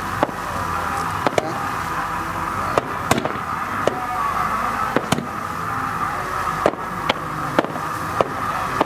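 Aerial fireworks bursting: about a dozen sharp bangs at irregular intervals, some close together, over steady background noise.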